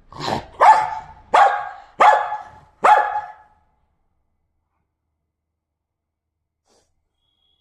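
A dog barking five times in quick succession over about three seconds.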